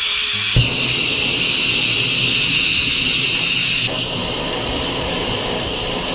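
Pressurised petrol camping stove being lit: a hiss, a short whoomp as it catches about half a second in, then the steady rushing roar of the burner, which eases slightly about four seconds in. It was lit with too little preheating, which the cook blames for the flare of flame.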